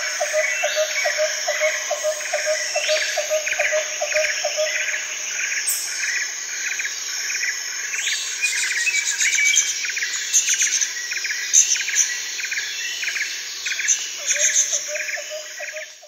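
Tropical rainforest ambience: a steady high insect chorus with birds calling over it, one call repeating about twice a second throughout. A lower call pulses about three times a second for the first few seconds and again near the end, high chirps join in the second half, and it all fades out at the very end.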